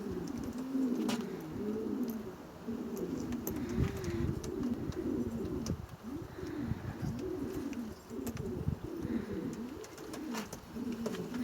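Several domestic pigeons cooing continuously, their coos overlapping and rising and falling, with scattered light clicks.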